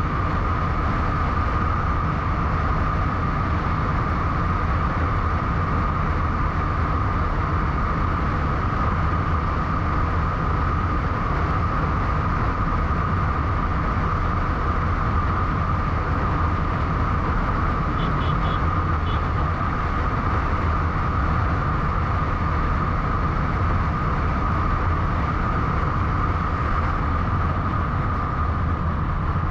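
Steady wind and road noise from a bike travelling at speed, with a constant low rumble and an even hum. About two-thirds through there are a few faint, short, high chirps.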